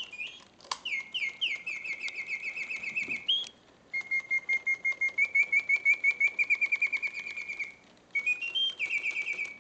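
1968 Reuge double singing bird cage's bellows-driven whistle mechanism singing: rapid warbling trills of mechanical birdsong at a fairly steady pitch, in three phrases broken by two brief silences. The bellows are strong and the song has its proper note oscillation and pitch, a sign of a movement in good working order.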